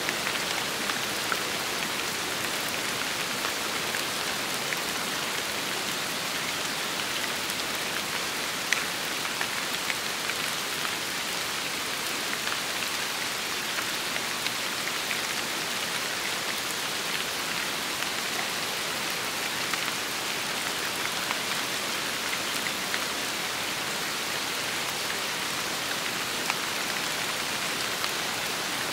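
Steady rain falling on a surface: an even hiss sprinkled with scattered individual drop ticks, one a little louder about nine seconds in.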